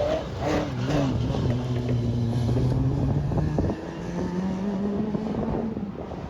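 Porsche 996 rally car engine running at steady revs. Near four seconds its note dips briefly, then holds steady at a higher pitch and fades near the end.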